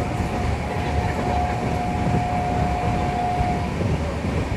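Passenger train running along the track, a steady low rumble of the carriage on the rails. A single steady high tone is held for about three and a half seconds over it and then stops.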